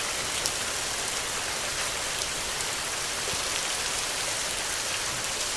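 Steady rain falling on a surface: an even hiss with scattered ticks of individual drops.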